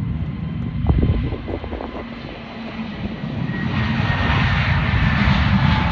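Airbus A321neo jet engines at takeoff power, a deep rumble that grows louder from about halfway through. A high whine over the noise falls slowly in pitch as the airliner goes past.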